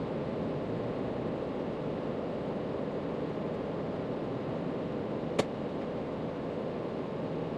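Steady rushing outdoor background noise, with one sharp click about five seconds in.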